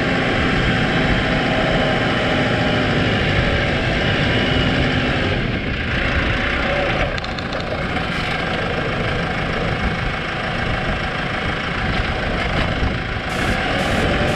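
New Holland T5 tractor's diesel engine running steadily under a dense, even noise, dipping slightly in level around the middle.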